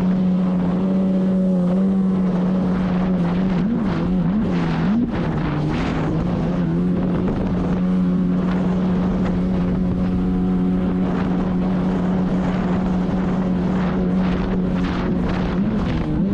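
Watercraft engine running at a steady speed, its pitch wavering briefly about four seconds in, with wind buffeting the microphone.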